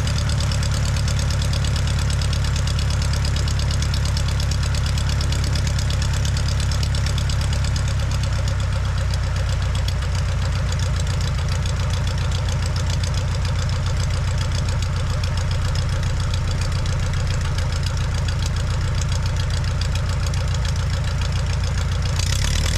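Aeronca 7AC Champ's piston engine and propeller running steadily, heard from inside the cabin.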